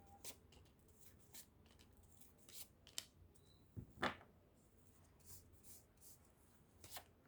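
Faint handling of tarot cards being shuffled and laid out: scattered soft flicks and taps of card on card.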